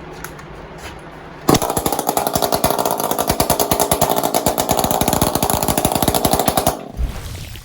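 Echo CS400 40 cc two-stroke chainsaw with an opened-up muffler firing on one pull about a second and a half in, then running loud with a fast, even popping beat before dying away near the end.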